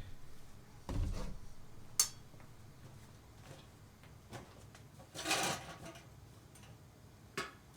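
Knife-sharpening gear being handled on a work surface: a dull knock about a second in, a sharp click, a brief scrape halfway through and another click near the end.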